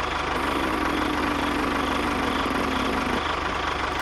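An engine running steadily at idle, with a fast even low pulse; a faint humming tone sinks slightly and stops about three seconds in.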